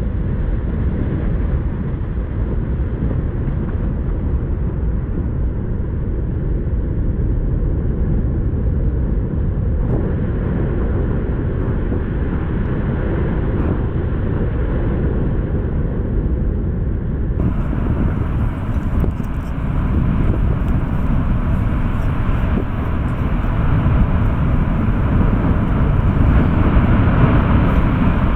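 A steady, loud, low rushing noise from the erupting Fagradalsfjall volcano's lava fountains, mixed with wind on the microphone. About 17 seconds in it turns brighter, and it grows somewhat louder toward the end.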